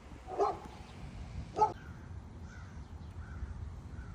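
Large black birds cawing: two loud, harsh caws about a second apart, followed by several fainter short calls. These are the calls of birds following and swooping down at a walker and her dog.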